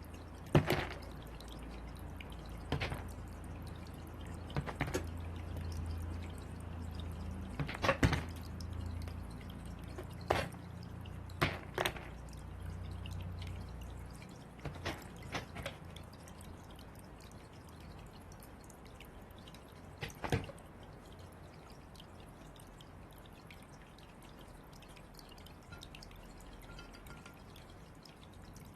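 Crow's beak pecking: about a dozen sharp, irregular taps and knocks a few seconds apart, over a low rumble that fades about halfway through.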